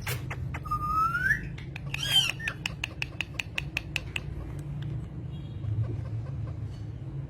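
Bird-like calls: a rising whistle about a second in, then squawky chirps and a quick run of clicks, over a steady low hum.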